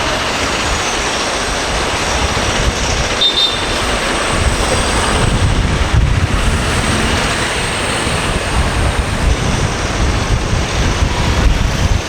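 Steady city street traffic noise from passing vehicles, with a low rumble growing stronger about four seconds in.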